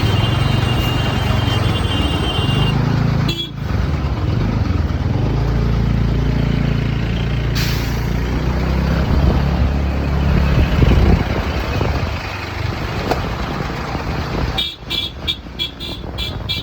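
Traffic and engine noise heard from a moving scooter, with a vehicle's engine running close by in the middle. A vehicle horn sounds for the first few seconds, and again near the end as a quick run of short toots, about four a second.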